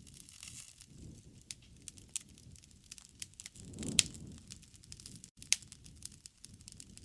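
Wood campfire crackling with scattered sharp pops over a low rush of flames; the loudest pop comes about four seconds in, with another a second and a half later.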